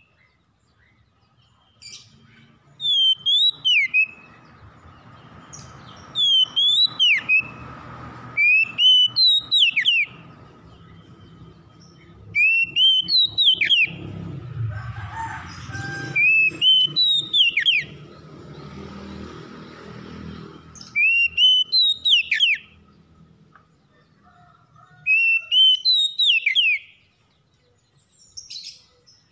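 A songbird repeating the same short whistled phrase about seven times, every three to four seconds. Each phrase is a rising note ending in a quick downward sweep. A low background rumble runs underneath through the middle.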